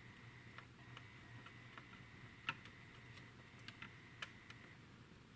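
Near silence with faint, irregular small clicks and taps, the loudest about two and a half seconds in: a tiny plastic model-kit part being handled and pressed into place on the workbench. A faint steady high tone runs until near the end.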